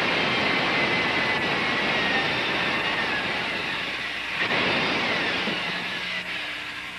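Electric power tool running with a high whine. It breaks off for a moment about four and a half seconds in, starts again, then winds down near the end.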